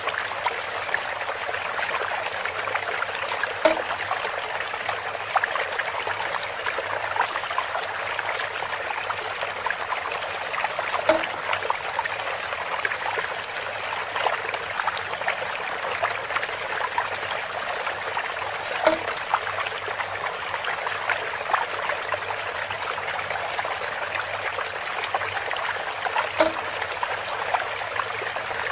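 Water trickling steadily through a bamboo spout. A short knock or plop stands out about every seven and a half seconds, four times.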